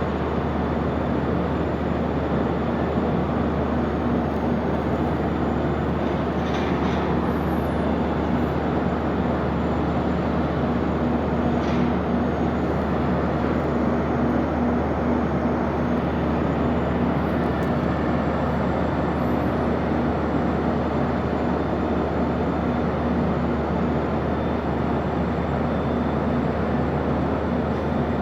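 Ship's engine and machinery running with a steady low drone and hum that holds unchanged throughout.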